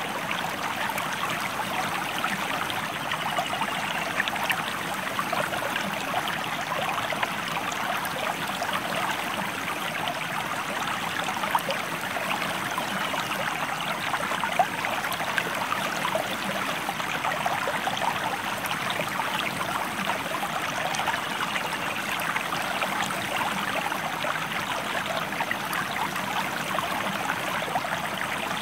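River water running steadily over rocks, a continuous splashing rush with small trickles and splashes in it.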